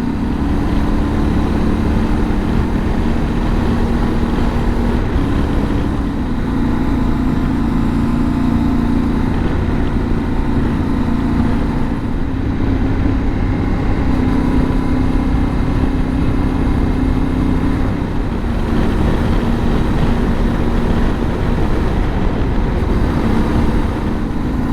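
Yamaha Ténéré 700 motorcycle's parallel-twin engine running at cruising speed, its note shifting up and down a few times with the throttle, under heavy wind rumble on the helmet microphone.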